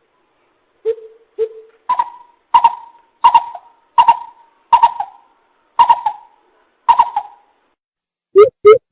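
Greater coucal hooting: a series of about nine hollow notes spaced half a second to a second apart. The first few are low, and from about two seconds in the notes are higher with a sharper start. Near the end a quicker run of low notes begins.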